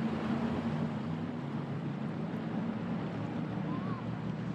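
Jet boat's engine running steadily under way, a low even hum over a rush of wind and water.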